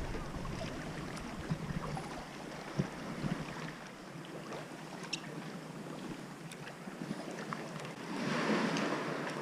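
Sea water lapping and splashing around a kayak, with scattered small drips and clicks, and a louder wash of water near the end.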